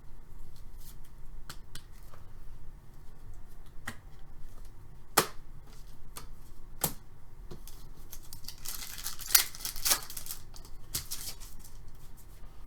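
Hockey trading cards and pack wrappers being handled on a table: scattered sharp clicks and snaps as cards are flicked and slid, with a longer rustle of wrapper or cards about nine seconds in.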